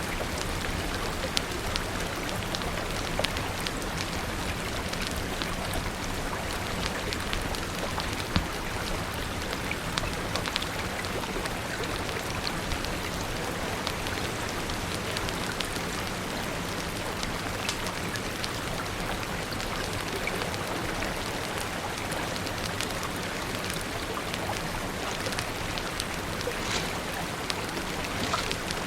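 Steady rain falling, with scattered sharp clicks and pops through it.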